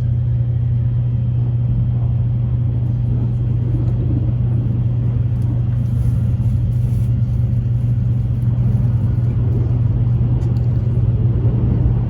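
Steady running noise of a Tokaido Shinkansen Kodama heard from inside the car: an even, low rumble with a constant hum, unchanging throughout.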